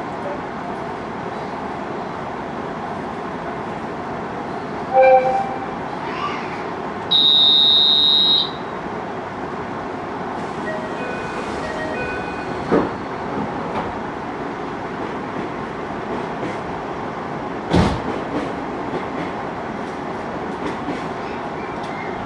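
Inside a JR Hokkaido 733-series electric train at a station: a steady hum of the train, then a loud, shrill signal tone about seven seconds in that lasts about a second and a half. Short beeps come before and after it, and there is a sharp knock near the end.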